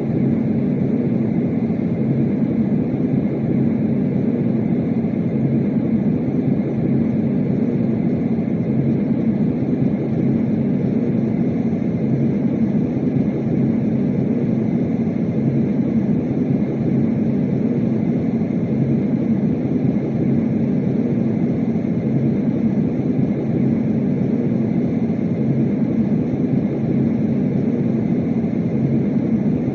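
Yogasleep Duet white noise machine playing a steady, deep rushing noise through its speaker, cutting in suddenly.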